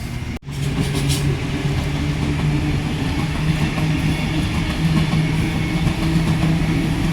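Electric passenger train running at the platform, its motors giving a steady hum over rolling noise. The sound cuts out for an instant near the start.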